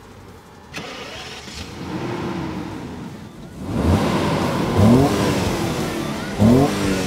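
BMW E38 750iL's V12 petrol engine running and being revved repeatedly, with two sharp blips near the end where the pitch climbs quickly.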